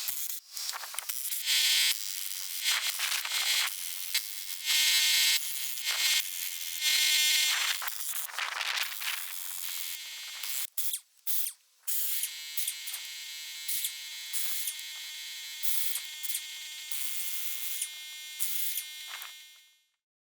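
A small electric motor whines steadily alongside clicking and clattering, then fades out near the end.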